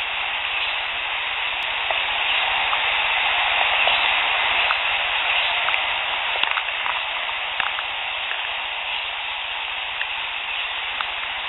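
Outdoor field-recorder audio: a steady, dense hiss with scattered faint clicks, swelling slightly a few seconds in.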